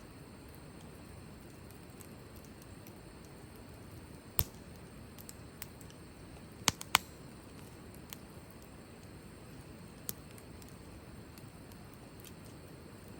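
Wood fire burning with a low steady hiss and scattered sharp pops and crackles, the loudest a pair of pops close together about seven seconds in.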